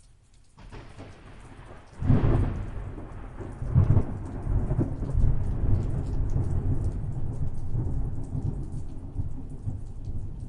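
A thunderclap breaks suddenly about two seconds in, with a second loud crack about two seconds later, then rolls on as a long low rumble that slowly fades. Steady rain patters throughout.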